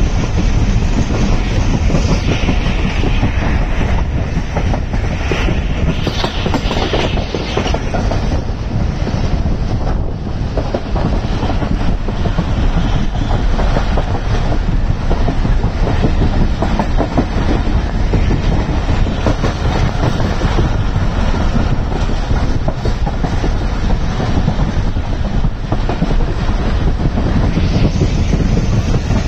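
Passenger train running at speed, heard from inside a carriage at the window: a steady, loud rumble and rattle of the wheels on the track.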